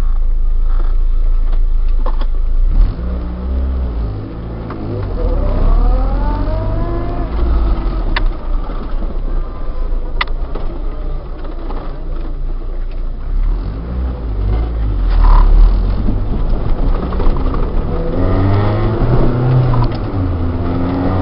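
Honda B16A DOHC VTEC inline-four in a 1991 Civic Si hatchback, heard from inside the cabin while driving. The engine note rises as it pulls through a gear and drops at the shift, then climbs again near the end. Two sharp clicks come about eight and ten seconds in.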